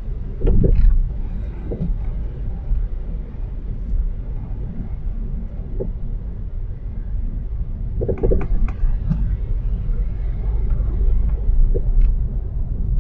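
Road noise inside a moving car's cabin on snowy streets: a steady low rumble from the engine and tyres, with a few brief knocks, the loudest about half a second in and another about eight seconds in.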